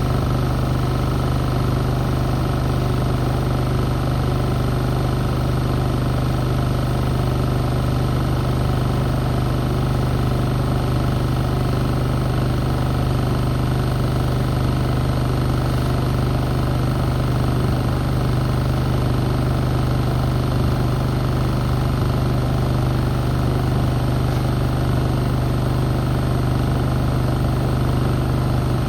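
Beko WM74135 washing machine spinning, its motor giving a steady, unbroken hum.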